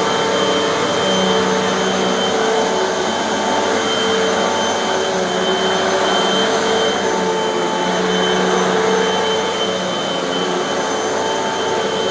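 Hoover bagless upright vacuum cleaner running steadily on carpet, with a constant motor whine over the rush of air. The level dips slightly near the end.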